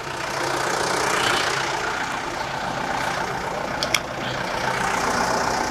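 John Deere 310G backhoe's diesel engine running, picking up over the first second and then holding steady, with one short click about four seconds in.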